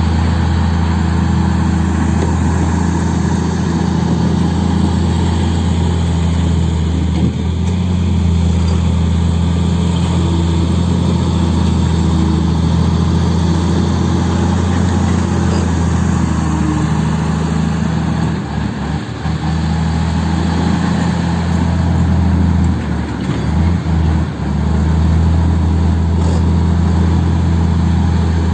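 Heavy diesel engine running at a steady, even speed, with a few brief dips in level in the later part.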